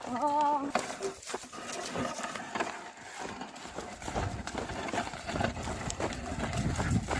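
Oxen pulling a plough, their hooves knocking over the field. A short wavering call comes right at the start, and a low rumble builds in the second half.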